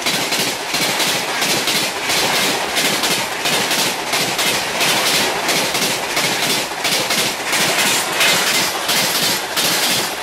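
Express passenger coaches passing close by at speed: a steady rush of noise with the rapid, rhythmic clickety-clack of wheels striking rail joints.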